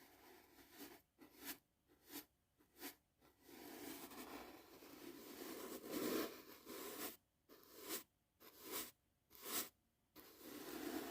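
Soft brush bristles swishing against the microphone: a run of short separate strokes, then a few seconds of continuous brushing, then more short strokes before continuous brushing resumes near the end.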